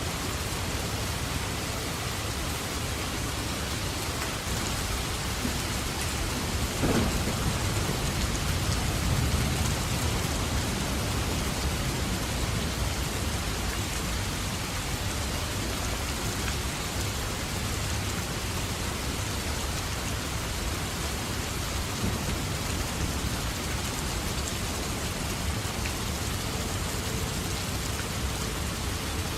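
Steady heavy rain pattering down, with a low rumble of thunder swelling about seven seconds in and fading over several seconds.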